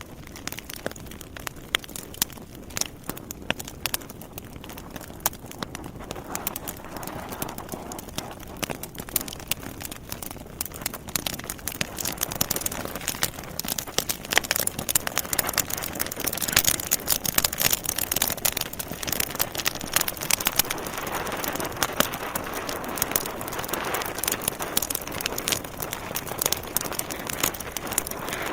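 Wood fire crackling in a fireplace: a dense run of sharp pops and snaps from the burning logs over a steady hiss, getting a little louder about halfway through.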